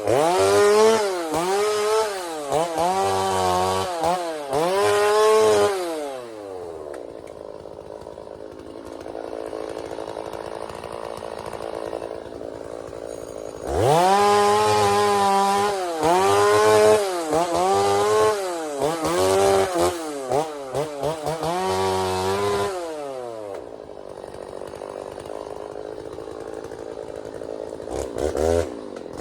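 Two-stroke chainsaw revving up and falling back about once a second in runs of short cuts while clearing brush, dropping to a low idle twice between runs and picking up again near the end.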